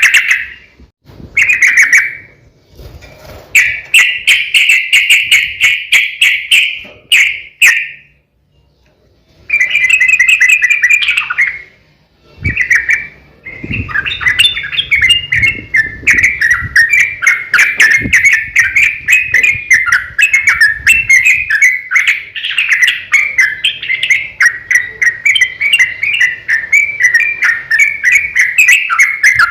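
Yellow-vented bulbul (trucukan) singing loud, long runs of fast chattering notes around one pitch. There is a short break about eight seconds in, then almost unbroken song.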